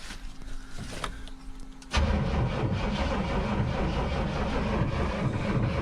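New electric fuel pump humming on a 1994 GMC C3500HD truck. About two seconds in, the starter engages and the engine cranks over, trying to start.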